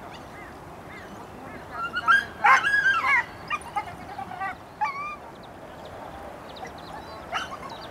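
Birds calling over a steady background hiss: a cluster of loud calls that rise and fall in pitch about two to three seconds in, a few more near five seconds, and faint high chirps later.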